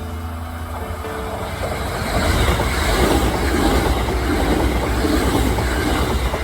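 Kintetsu Nara Line electric train passing on the rails, its running noise swelling about two seconds in and holding loud.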